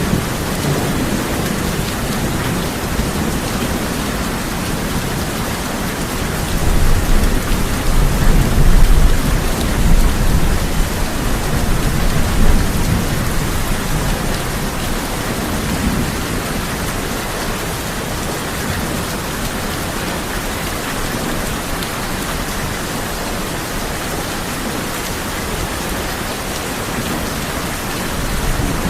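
Steady heavy rain drumming on a tin roof. A rumble of thunder swells about seven seconds in and dies away by about thirteen seconds.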